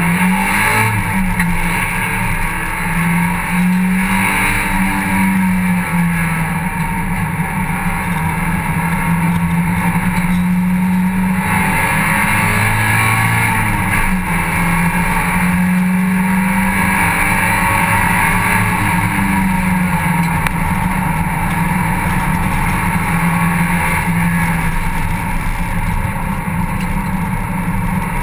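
Mazda MX-5 cup race car's four-cylinder engine running hard on track, heard from inside the open cockpit, its note rising and dropping repeatedly over steady wind and road noise.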